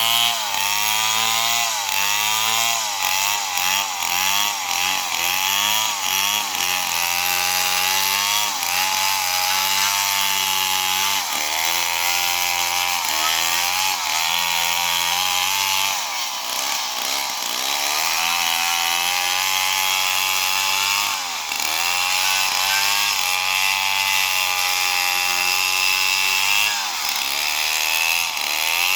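Stihl MS 070 two-stroke chainsaw running at high revs while sawing into an old palm trunk. Its pitch sags and recovers again and again as the chain loads up in the cut, with the deepest dips about a third, halfway and three-quarters of the way through.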